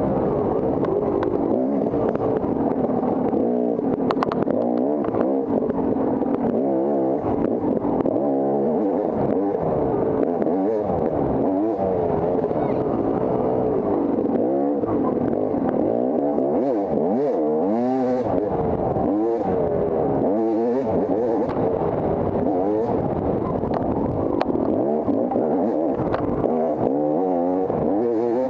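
Dirt bike engine being ridden hard. Its pitch rises and falls every second or two as the throttle is opened and closed and the gears change.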